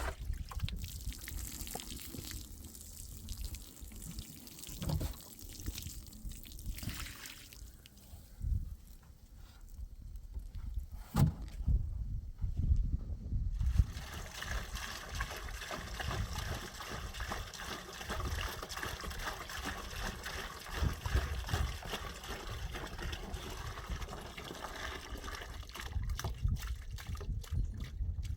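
Water pouring and trickling in a steady stream for about twelve seconds in the second half, after a stretch of low knocks and one sharp click.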